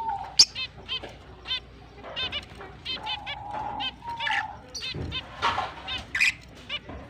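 Several finches chirping in quick runs of short repeated high notes, with a longer held lower call around the middle and one sharp, loud high call about half a second in.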